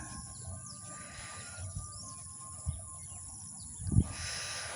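Birds chirping, with a low thump about four seconds in.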